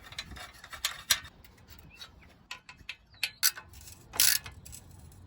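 Scattered light clicks and taps, with a short scrape about four seconds in, as a 10mm bolt is fitted to the centre of a car's radiator support crossmember.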